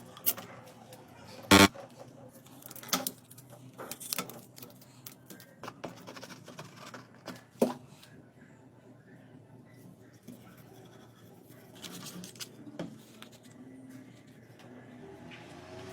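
Hand work on a wood repair: scattered knocks and taps of tools and wood set down and handled, with softer scraping in between. The loudest knock comes about one and a half seconds in.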